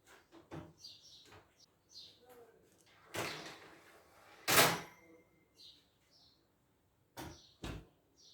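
Kitchen handling sounds: a series of short knocks and clatters, with two louder, longer ones in the middle, like a cupboard door or utensils being moved. Faint bird chirps in the background.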